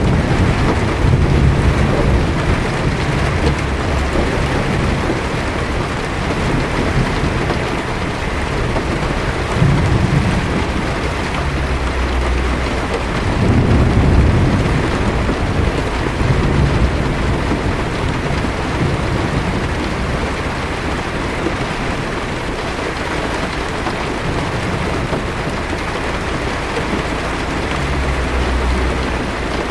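Heavy rain pattering steadily on a car's windshield and roof, with low thunder rumbling in the distance several times.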